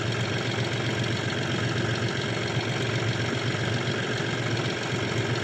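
Tractor engine running at a steady idle, an even low hum with no change in speed.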